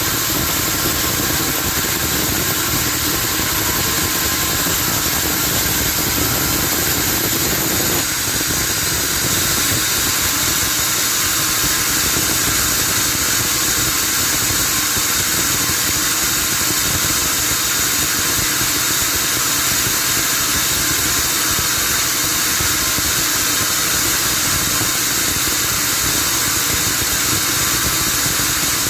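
Sawmill machinery running steadily: a continuous engine-like drone with a strong high hiss, changing slightly about eight seconds in.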